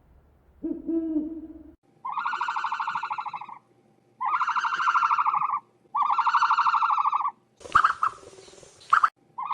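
An animal calling over and over: a short low call, then three long, fluttering calls about a second and a half each, evenly spaced, and a brief noisy patch near the end before the call comes again.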